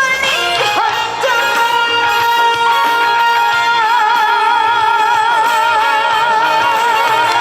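Trot song's closing climax over a full backing track: a female voice holds one long high note that breaks into vibrato about halfway through.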